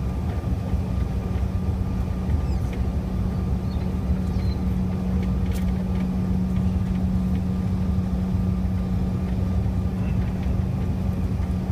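Airliner jet engines running, heard from inside the passenger cabin: a steady drone with a strong low hum.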